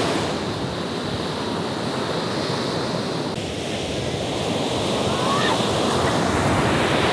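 Ocean surf breaking and washing up the beach, with wind buffeting the microphone; the wash swells a little louder after about five seconds.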